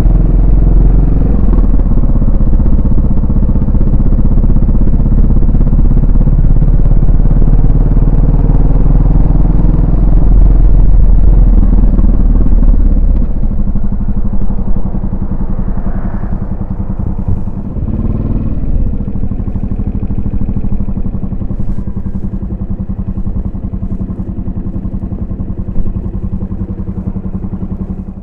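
Yamaha SR400's air-cooled single-cylinder four-stroke engine and exhaust, ridden at a loud, steady pull; about halfway through the engine sound drops and settles into a quieter, steadier, even note as the throttle comes off.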